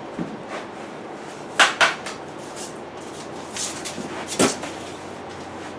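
Short knocks and clunks from handling a freezer and its packing: a quick double knock near two seconds in, and another single knock about four and a half seconds in.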